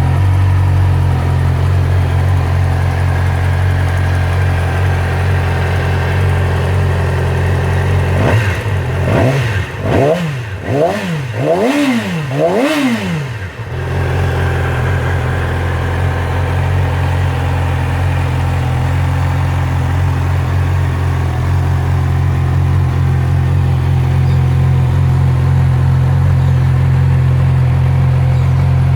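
A 2015 Yamaha R6's 600 cc inline-four engine idling steadily. About a third of the way in, it is revved in a quick series of about five throttle blips, each rising and falling in pitch, then it settles back to idle.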